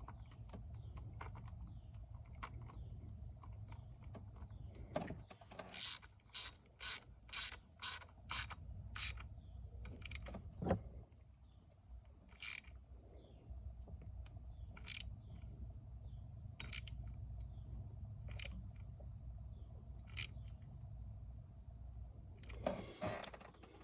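Quarter-inch-drive ratchet with a 10 mm socket working an ignition-coil bolt: a quick run of about seven sharp clicks a few seconds in, then scattered single clicks, over a low steady hum.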